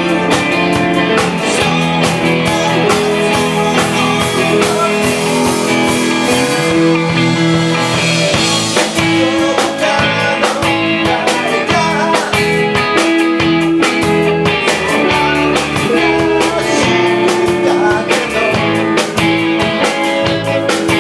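A rock band playing live: guitar over bass and drums, in a blues-rock style, with a steady beat.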